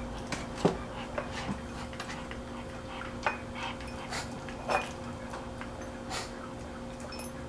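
A puppy eating from his food bowl: irregular light clinks and clicks of the dish, about eight in all, over a faint steady hum.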